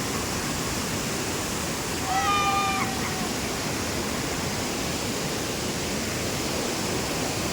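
Waterfall rushing steadily. About two seconds in, one short, high, held call with overtones sounds over it for about a second.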